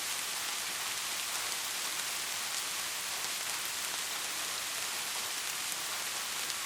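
Steady rainfall: an even hiss of rain with the patter of individual drops, and no thunder.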